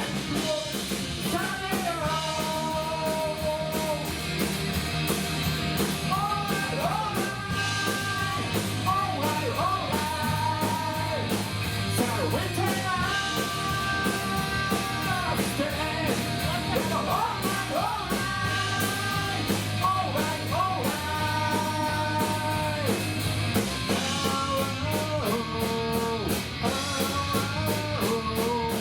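Live rock band playing: a melody of long, sliding notes, which sounds sung, over electric guitar, bass and a steady drum beat.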